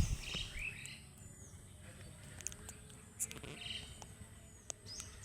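Birds chirping in short repeated calls over a steady low outdoor background, with a low thump right at the start and a few sharp clicks.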